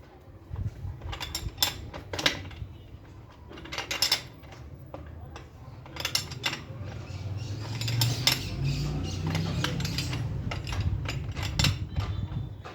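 Irregular metal clinks and knocks of tools and bicycle parts being handled during reassembly, with a low rumble underneath that grows stronger in the second half.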